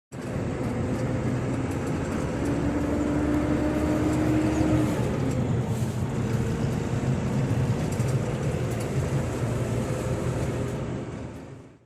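A truck on the move: steady engine hum and road noise, fading out near the end.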